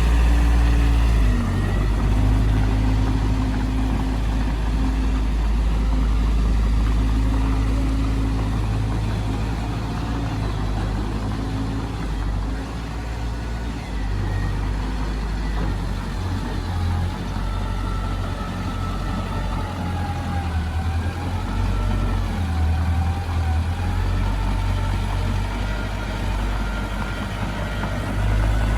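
Heavy diesel earthmoving machinery running steadily, a deep continuous engine hum with a faint wavering whine higher up in the second half.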